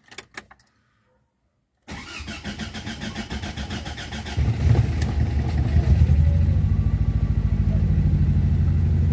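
Mazda 626 2.0-litre four-cylinder engine cranked by the starter for about two and a half seconds, then catching on its first start after a cylinder head repair and a new fuel pump and ignition module. It flares up briefly and settles into a steady idle.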